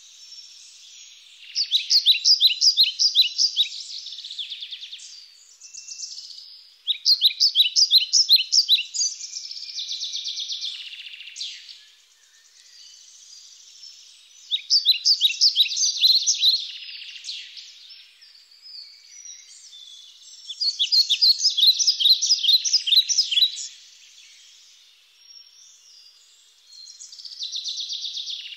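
A songbird singing, with bursts of rapid, repeated chirps about two to three seconds long coming back roughly every six seconds. Softer chirping fills the gaps between the bursts.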